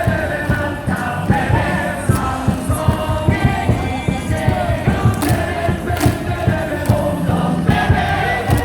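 Baseball crowd singing a batter's cheer song in unison over music from the stadium speakers, with a dense beat underneath.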